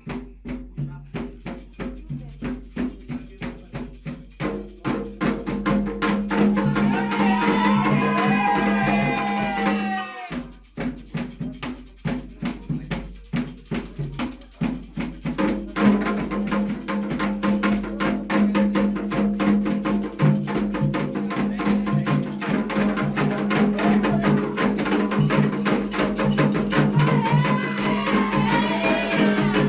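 Candomblé ritual music: a fast, steady drum beat with a sharp clicking percussion line, and voices singing, once about a quarter of the way in and again near the end.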